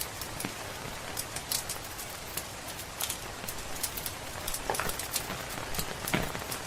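Steady rain hiss with the crackle of a wood fire, many small sharp pops at irregular intervals and a couple of louder snaps near the end.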